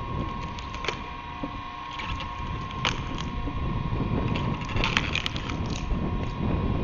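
An electric-motor screw-cone (drill) log splitter running with a steady hum and a constant whine, as wood cracks sharply about a second in, near three seconds, and in a cluster around five seconds while the log is split.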